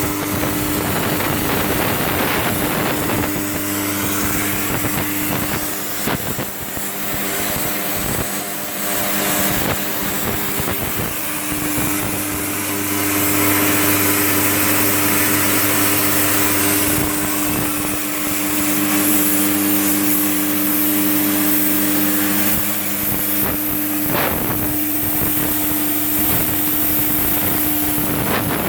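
An 80 A Migatronic plasma cutter's arc cutting through 12 mm steel plate: a loud, steady hiss with a constant hum underneath.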